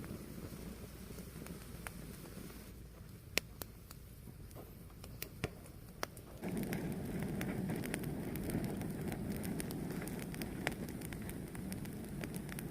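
Fire burning with a steady low rush of flames and scattered sharp crackles and pops. The rush grows suddenly louder about halfway through.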